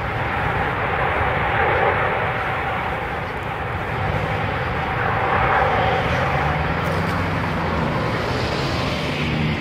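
Airliner jet engines running, a loud steady rush with a faint steady whine.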